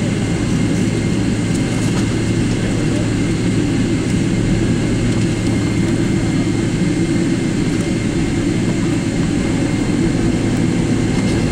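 Steady, loud cabin noise inside a Boeing 777-300ER, heard from a window seat: a deep rumble of its GE90 engines and airflow with a constant low hum, unchanging throughout.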